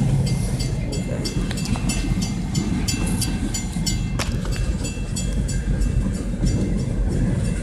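Train passing close by: a steady low rumble of the rolling cars, with the wheels clicking over rail joints in a fast, regular rhythm.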